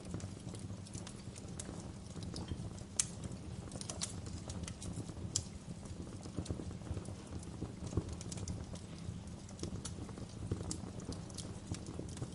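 Wood fire crackling in a fireplace: irregular sharp pops and snaps over a steady low rumble from the flames, with a couple of louder snaps about three and five seconds in.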